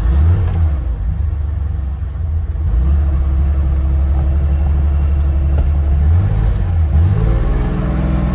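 1970 Porsche 911S air-cooled flat-six running just after a warm start, idling with its revs rising and falling a few times near the end.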